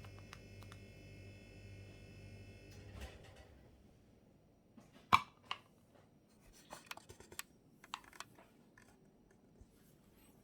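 A coffee maker running with a steady hum that cuts off about three seconds in, followed by a few scattered clicks and knocks, the loudest a sharp knock about five seconds in.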